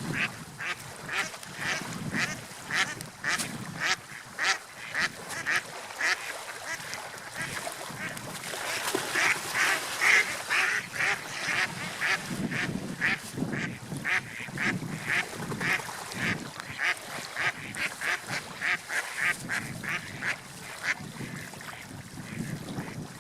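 Gulls calling in a long run of short, repeated calls, about two or three a second, loudest and busiest around the middle, over a low steady background rush.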